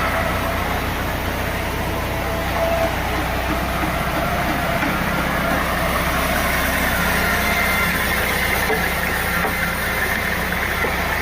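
Sawmill machinery running steadily, a low engine drone with broad noise over it that does not change.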